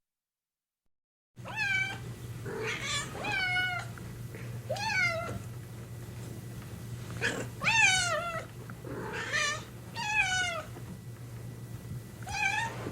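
Domestic cat meowing repeatedly, about eight meows in all, each rising and then falling in pitch, over a steady low hum. The meowing starts after a second and a half of silence.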